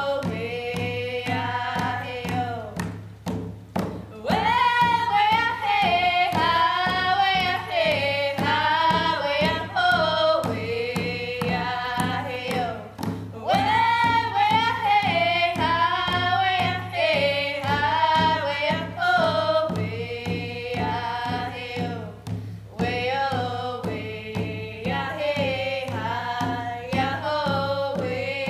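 Hand drum song: two female voices singing together, each keeping a steady beat on a hand-held frame drum, with brief pauses between phrases.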